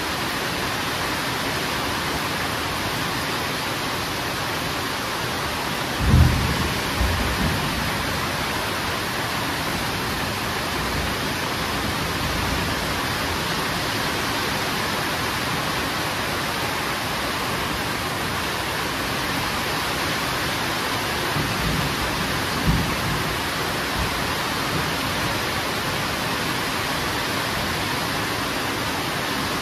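Steady heavy rain with thunder: a sudden low rumble about six seconds in, the loudest moment, and a weaker rumble about two thirds of the way through.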